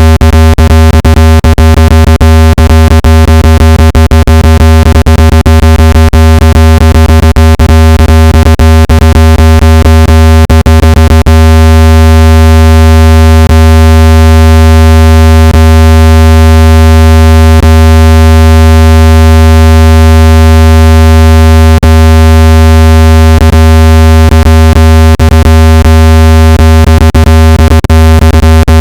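Loud, steady, low-pitched synthetic tone with a stack of overtones: a speaker water-ejection tone meant to shake water out of a phone or earphone speaker. Rapid clicks break through it for the first ten seconds or so and again in the last few seconds.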